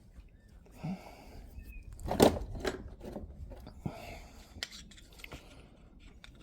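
Tools and parts being handled on a workbench: scattered knocks and clicks, the loudest a sharp knock about two seconds in.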